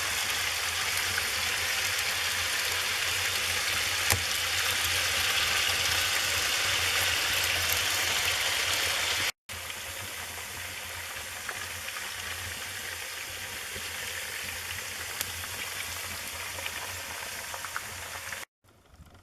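Wood fire burning in a fireplace, a steady hissing with scattered crackles and pops. It cuts out briefly about halfway, then goes on quieter with more distinct crackles.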